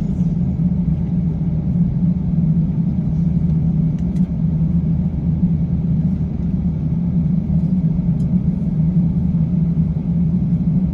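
Steady low cabin hum and rumble inside an Airbus A350-900 on the ground before its takeoff roll: the engines idling with the air-conditioning running. A couple of faint ticks sound over it.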